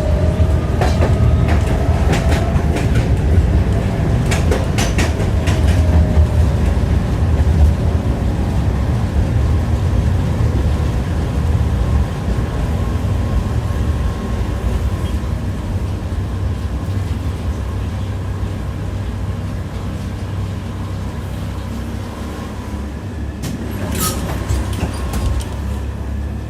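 Tram running on its rails, heard from inside the car: a steady low rumble with sharp clicks of the wheels over rail joints, several in the first few seconds and one more near the end. A faint whine glides in pitch early on, and the running grows gradually quieter in the second half.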